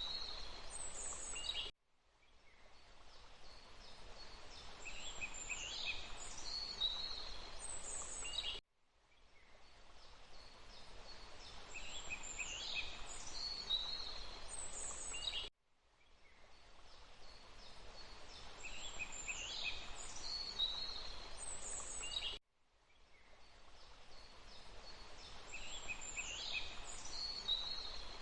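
Songbirds chirping in short high calls over a steady rushing hiss of water. The recording is a short loop: about every seven seconds it cuts out abruptly and fades back in, repeating the same calls.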